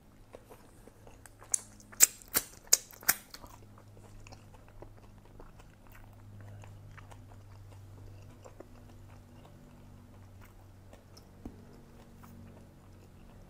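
A person chewing food, with five sharp crunches in quick succession between about one and a half and three seconds in, then quieter chewing with small scattered clicks.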